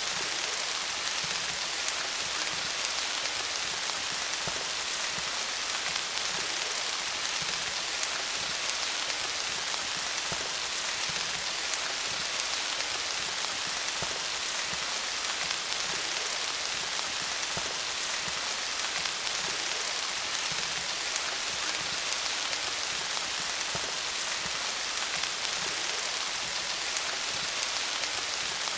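Steady rain falling on leaves: a dense, even patter of countless small drops, with no change in strength.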